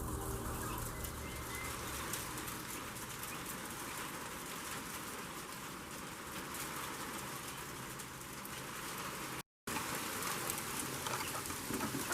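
Steady hiss of freezing rain falling during an ice storm, with fine ticking of drops on ice-coated surfaces. It breaks off for a moment about three-quarters of the way through.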